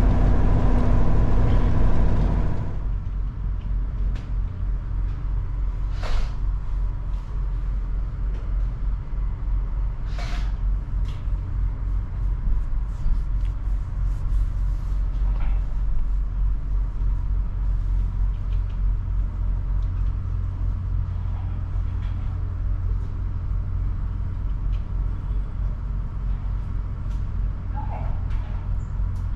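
Semi-truck diesel engine running, loud for the first couple of seconds and then settling to a steady low rumble. Brief air hisses come about six and ten seconds in.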